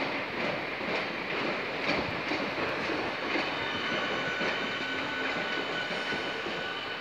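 Southeastern electric multiple unit train running through the station, with wheels clicking over rail joints and points. A thin, steady high tone joins from about three seconds in.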